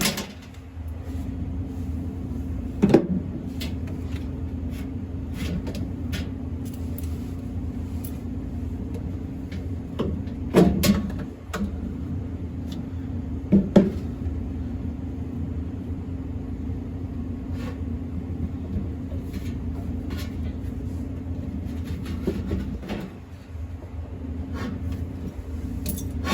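Clunks and clicks of tools and parts being handled during repair work on a refrigerated prep table, a few of them sharper, about three, eleven and fourteen seconds in, over a steady low machinery hum.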